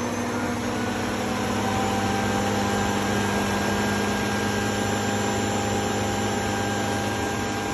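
Shark robot vacuum's self-emptying base running, its suction motor pulling the dirt out of the robot's dustbin. It is a steady whir with a faint tone that rises slightly in pitch over the first couple of seconds, and it starts to die down near the end.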